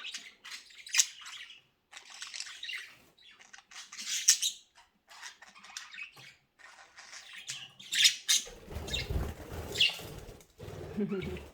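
Budgerigars chirping and squawking in short, sharp calls, with a low muffled rumble in the last few seconds.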